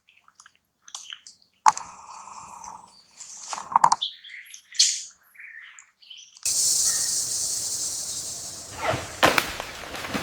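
Birds chirping and calling in short, scattered notes with quiet gaps between them. About six and a half seconds in, a steady high-pitched hiss of jungle ambience starts abruptly, with a couple of sharp clicks near the end.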